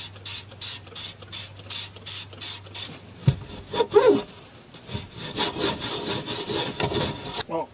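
Rag or cloth scrubbing bird droppings off a truck's paintwork: hissy back-and-forth wiping strokes about three a second, a sharp click a little past three seconds in, then a longer, denser bout of scrubbing.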